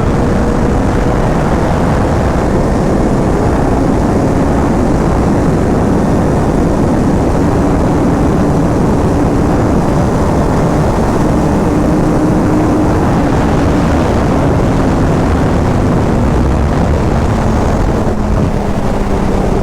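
Sport-bike engine held at a steady high-speed cruise under heavy wind rush on the microphone, its pitch easing slowly lower in the last few seconds.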